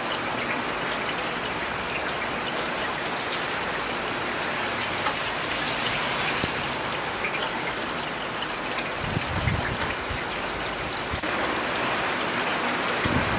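Steady rain falling, with scattered single drops ticking sharply over it. A brief low rumble comes about two-thirds of the way through.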